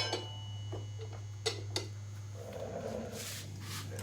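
Faint clicks and light clatter of hand tools being handled, with a short rustle near the end, over a steady low hum.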